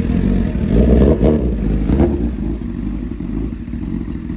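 Sport motorcycle engines running, with louder revs about a second in and a brief blip around two seconds, then settling to a steadier, lower sound.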